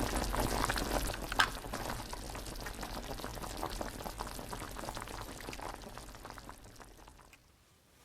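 Dense crackling and bubbling, like food sizzling or liquid boiling in a pan, fading steadily and dying away near the end.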